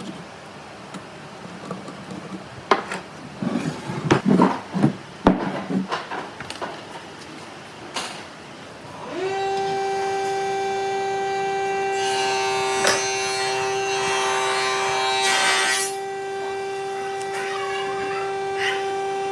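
Wooden pieces handled with scattered knocks and scrapes, then about halfway through an electric power tool starts up and runs at a steady pitch. For a few seconds it rasps as it cuts or sands into the wood.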